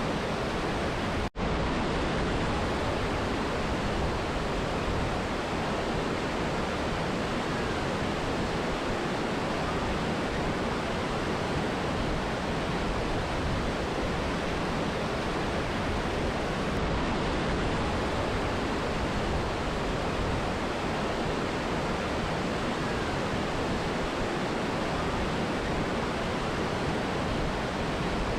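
Mountain river and waterfall: a steady, even rush of water, broken by a momentary dropout about a second in.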